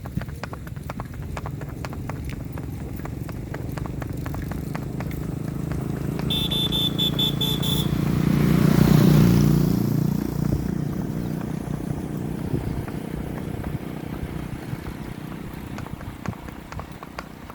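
A Marwari mare's hooves clip-clop steadily on a road. A motor vehicle passes about halfway through and is the loudest sound, rising and then fading. Just before it goes by there is a rapid high beeping, like a horn, for about two seconds.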